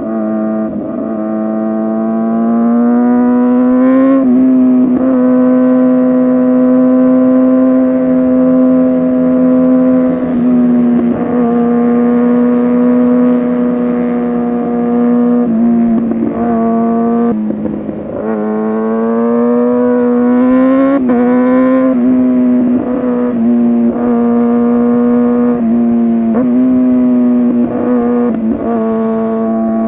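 Kawasaki ZX-6R 636 inline-four sport-bike engine through an SC-Project exhaust, ridden hard at high revs. The pitch holds high and steady, then dips and climbs again several times as the rider eases off and gets back on the throttle through the bends.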